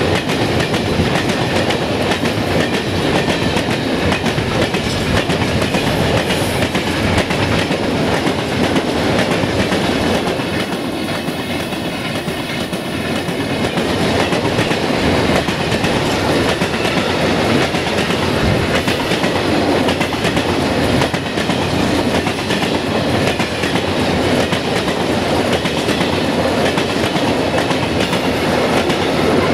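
A long freight train of silo wagons rolling past close by, its steel wheels rumbling and clattering on the rails. The sound eases a little for a few seconds midway.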